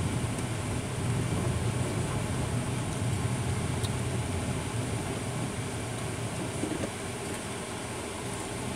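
Engine and road noise of a vehicle being driven through town, heard from inside the cabin: a steady low engine hum over tyre noise, easing slightly near the end.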